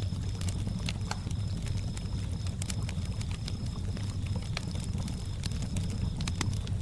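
Campfire crackling with irregular sharp pops over a steady low rumble, while crickets chirp in short repeated high pulses.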